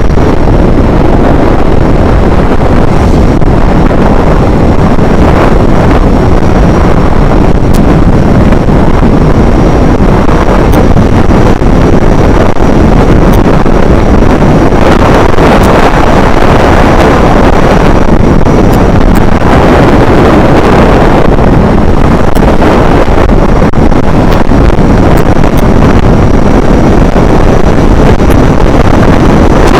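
Loud, unbroken wind buffeting a microphone: a dense rushing rumble with no break.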